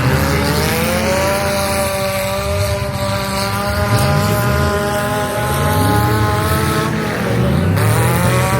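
Demolition derby cars' engines running at high revs: one engine climbs in pitch in the first second or so and holds there, dips briefly near the end and revs up again, over the rumble of other engines.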